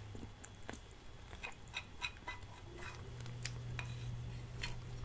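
Faint, scattered light clicks of a fork against a plate while eating cheesecake, with a little soft chewing, over a steady low hum that grows stronger about three seconds in.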